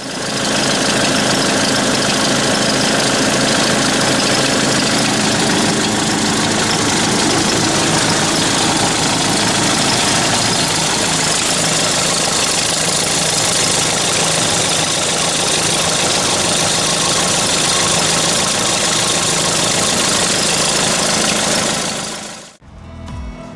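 Kubota SL60 tractor's diesel engine idling steadily, with the squealing noise it makes at idle from the alternator and fan-belt drive. The sound fades out near the end.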